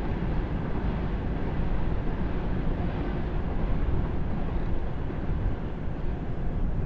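A passing train's steady low rumble, its higher noise thinning out near the end.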